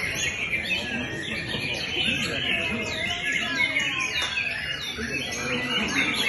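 Several songbirds singing at once, a white-rumped shama among them: a dense mix of overlapping chirps and whistled glides.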